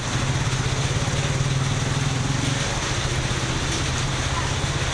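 Road traffic in the rain: a nearby vehicle engine running with a steady low hum that eases a little about halfway through, over a constant hiss of rain and wet road.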